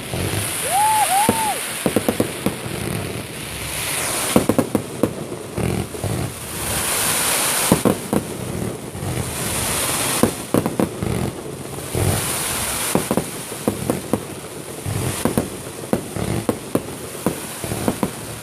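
Fireworks display: a continuing run of bangs from exploding shells, with hissing, crackling swells every couple of seconds. A short two-note whistle sounds about a second in.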